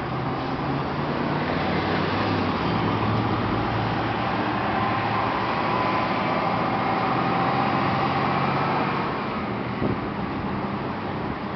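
Motor vehicle engine running steadily amid road traffic noise, with a swell of louder road noise from about three to nine seconds in.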